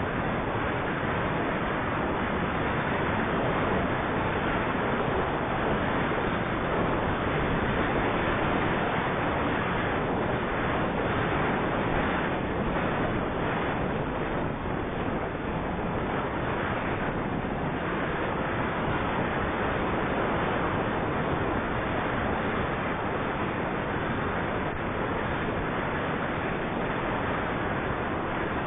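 Steady rushing wind noise on the microphone of a camera riding along on a moving bicycle, even and unbroken throughout.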